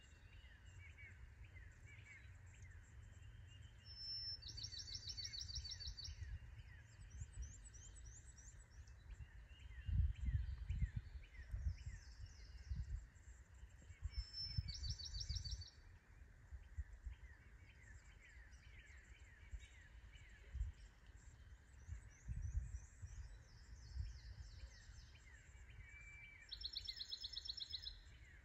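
Songbirds singing: a high, rapid trill of repeated notes comes three times (about four seconds in, about fourteen seconds in and near the end), over many short, falling chirps from other birds. A low rumble swells in gusts around ten and fifteen seconds in.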